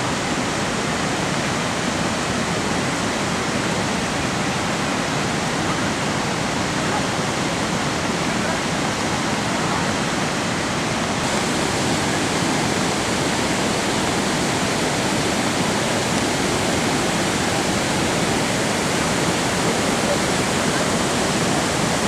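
Waterfall in full monsoon flow: a loud, steady rush of falling water that brightens slightly about halfway through.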